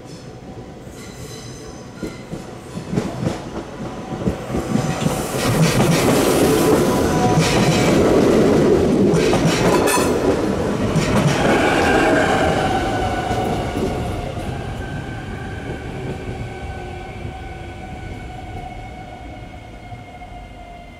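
A Siemens Desiro electric multiple unit passing close by: wheels clack over rail joints and points, rising to a loud pass. Then a whine that sinks slowly in pitch as it draws away and fades.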